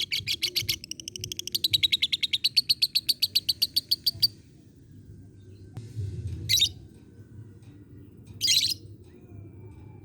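Lovebird giving a long, fast chatter: sharp repeated notes, about ten a second, that stop about four seconds in. Two short harsh squawks follow a couple of seconds apart.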